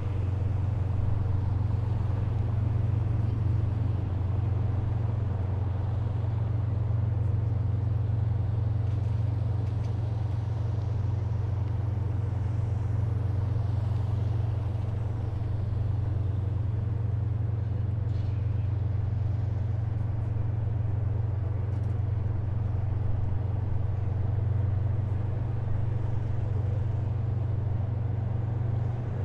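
Heavy military vehicles' engines running with a steady, unchanging low drone.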